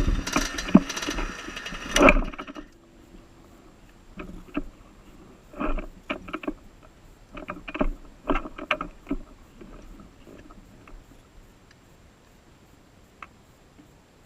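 Motocross bike engine running, cutting off abruptly about two and a half seconds in, followed by a series of short scattered knocks and clanks.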